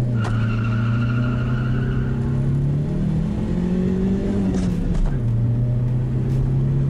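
Lada VAZ-2110's four-cylinder engine under hard acceleration, heard from inside the cabin. The revs hold level for a few seconds with a faint high tyre squeal over the first two as the wheels spin, then climb, drop sharply at a gear change about five seconds in, and pull on steadily.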